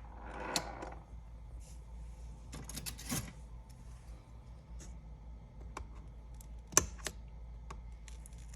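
Small sharp clicks, taps and light scraping of hand tools against an iPad 10's battery and frame as the battery is pried loose from its adhesive. The clicks are sparse, with a quick cluster about three seconds in and two sharp clicks near seven seconds.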